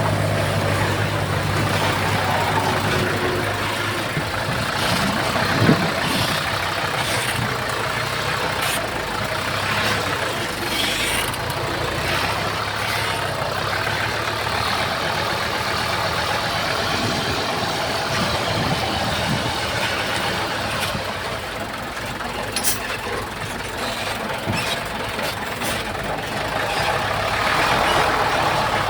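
Diesel engines of heavy earthmoving machinery running steadily, with a few sharp metallic knocks along the way.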